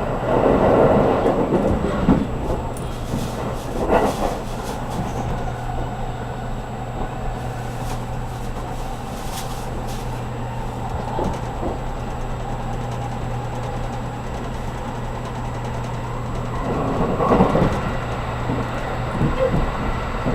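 Running noise heard inside a JR Kyushu 783 series electric train car at speed: a steady low hum over the rumble of wheels on rail, with louder rumbling swells at the start and again late on, and a short knock about four seconds in.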